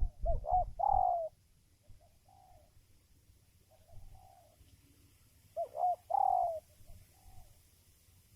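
Spotted dove cooing: two song phrases about five seconds apart, each a couple of short notes leading into a longer, falling coo. A low rumble sits under the first phrase.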